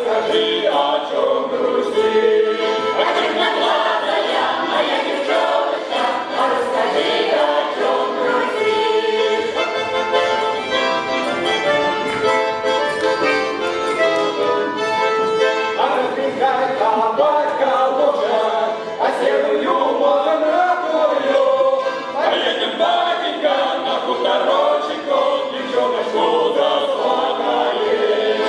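A Cossack folk-song ensemble singing as a choir, accompanied by accordion.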